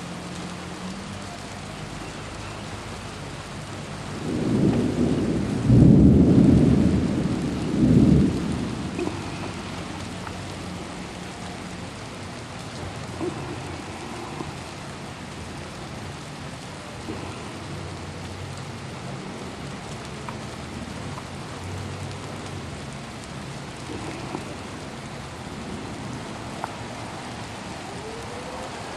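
Steady rain with a long rumble of thunder about four seconds in, swelling twice before fading. Right at the end a tornado warning siren begins to wind up in pitch.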